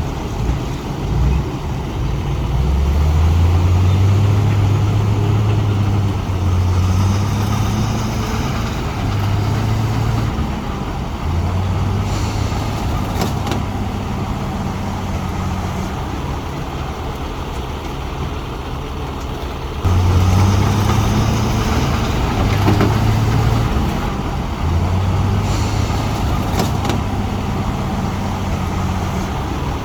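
Heavy diesel engines of earthmoving machines working, the low engine note rising and falling with load, with a few sharp clanks. The sound changes abruptly about two-thirds of the way through.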